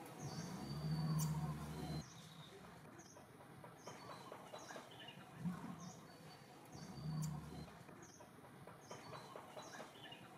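A small bird chirping over and over, short high chirps about one every three-quarters of a second, over faint outdoor background with a few swells of low hum.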